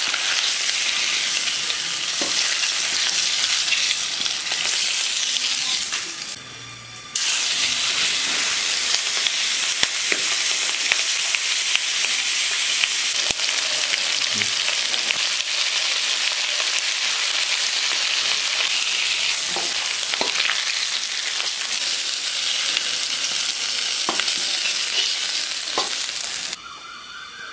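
Potato pieces frying in hot oil in a kadai: a steady sizzle with occasional taps and scrapes of the spatula as they are stirred. The sizzle briefly drops about six seconds in and turns quieter near the end.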